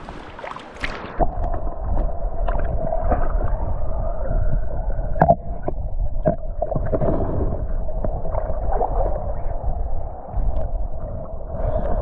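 River water heard through a camera microphone dunked below the surface, from about a second in: a muffled, low rumbling gurgle with scattered knocks against the housing.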